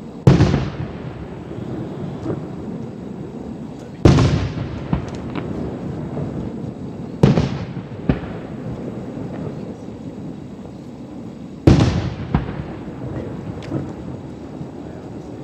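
Aerial firework shells bursting, heard from about a quarter mile away: four loud booms a few seconds apart, each trailing off in a rumbling echo, with smaller pops in between.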